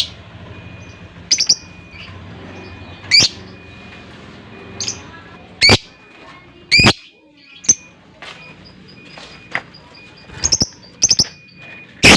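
Lovebird giving about ten sharp, shrill single calls spaced irregularly about a second apart, a few in quick pairs, over a faint steady hum.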